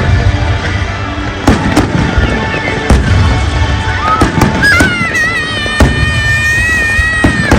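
Fireworks display: loud bangs of shells bursting every second or two over a steady rumble, with music playing. A high wavering tone is held through the second half.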